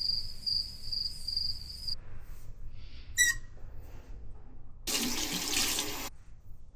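Water from a tap runs briefly for about a second, about five seconds in. Before that, a high pulsing chirp stops about two seconds in.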